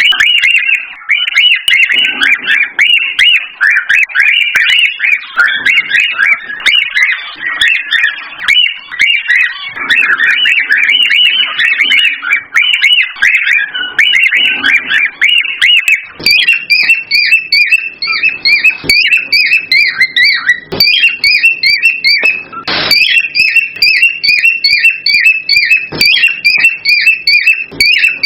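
Cockatiels calling in a busy stream of fast, high chirps and whistles, the mating calls of the species. Past the halfway point it turns into one short call repeated rapidly and evenly, several times a second.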